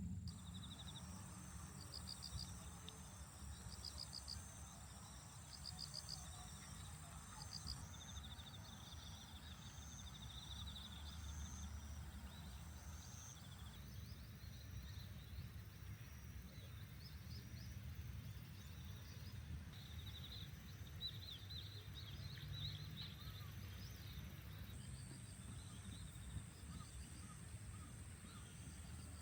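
Faint outdoor ambience of insects: a steady high trill and repeated short chirping calls, over a low steady rumble.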